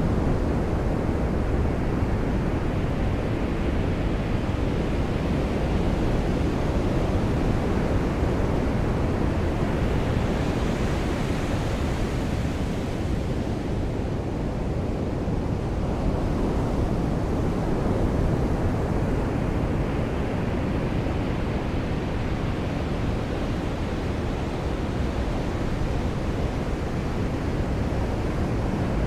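Surf washing onto a beach: a steady low rush of waves, brightening into a louder hiss twice as waves come in.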